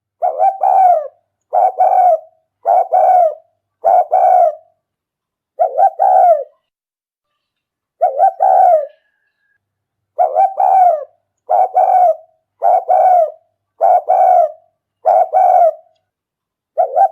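Spotted dove cooing: a decoy bird's "rút bổi" lure call. It gives short phrases of two or three quick coos, repeated about once a second, with a few longer pauses in the middle.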